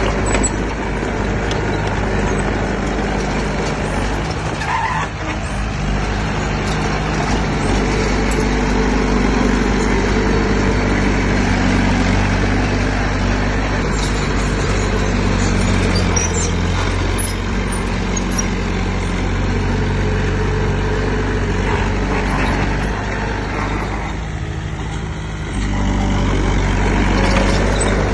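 Heavy diesel engine of earth-moving machinery running steadily under load, with a shift in engine note about five seconds in and a brief drop-off near the end before it picks up again.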